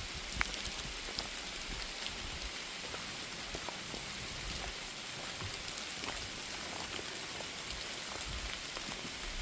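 Steady rain falling on a forest canopy: a constant hiss with many small scattered drip ticks.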